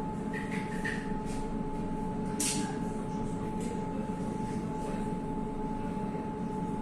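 Steady running noise aboard an electric river tram: a low hum with a constant high whine from its electric drive. A brief sharp click about two and a half seconds in.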